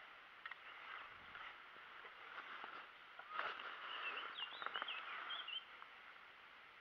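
A bird chirping a short run of quick, high notes that rise and fall, about four seconds in, over a faint steady outdoor background. Light clicks and rustles come from hands handling a mesh landing net.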